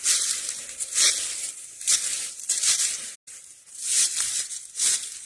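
Footsteps crunching through dry leaf litter on the forest floor, about one step a second.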